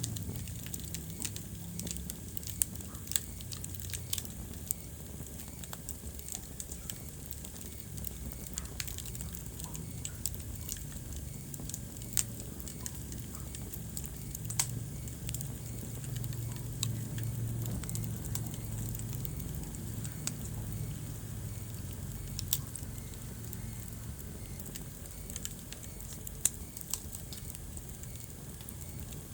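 Wood fire crackling in a fireplace, with frequent sharp pops and snaps over a low, steady rumble.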